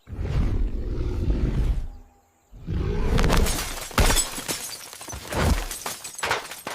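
Low rumbling, then after a brief dropout a loud crash of breaking and shattering, with many sharp cracks and a heavy hit about four seconds in.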